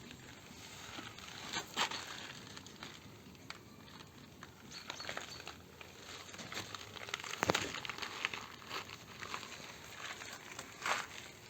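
Crinkly material being crumpled and handled by hand, a dry rustling broken by scattered light clicks and knocks, with a sharper knock about seven and a half seconds in.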